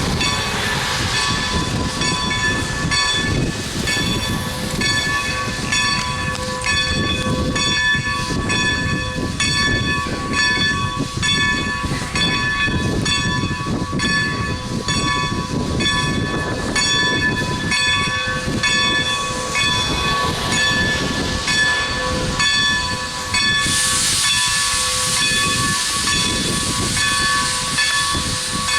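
Former Great Western 2-10-0 steam locomotive #90 working along the line: a steady rhythmic beat of exhaust under sustained high ringing tones. About two-thirds of the way through, a loud hiss of steam starts and keeps on.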